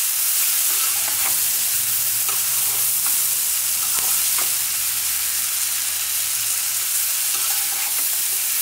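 Malabar spinach seeds, prawns and potatoes sizzling in oil in a nonstick pan while a spatula stirs and turns them, with occasional scrapes and taps of the spatula against the pan. The spiced mixture is being fried down (kosha) until the water cooks off and the oil separates.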